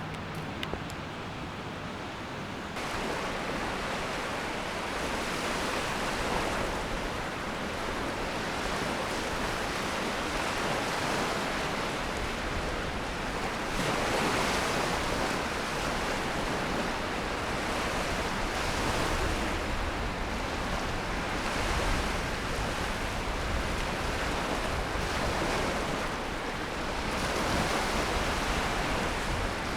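Waves washing on a shore: a rushing noise that swells and eases every few seconds. It comes in about three seconds in, over quieter ambience.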